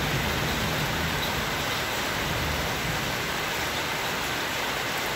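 Steady rain falling, an even hiss, with a low rumble of road traffic that fades out in the first few seconds.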